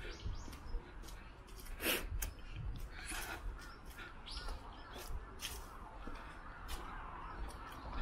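Harsh, cawing bird calls: one loud call about two seconds in and more around three and five seconds, over a steady low rumble.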